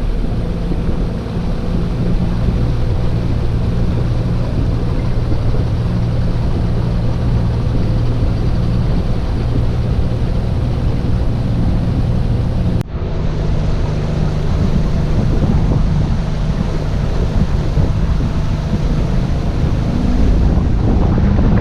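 Boat engine running steadily under way, with wind buffeting the microphone and water rushing past. There is a sudden brief break about halfway through.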